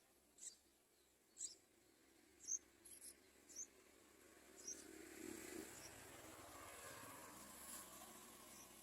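Faint, short, high-pitched cheeps from yellow-vented bulbul nestlings, about one a second at uneven intervals, typical of begging at the nest. A soft rushing noise rises about halfway through.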